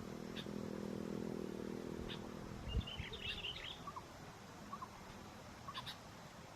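Small birds chirping: brief high chirps on and off, with a quick flurry of chirps about three seconds in and a few lower, falling notes after it. A steady low hum lasts through the first three seconds, then stops.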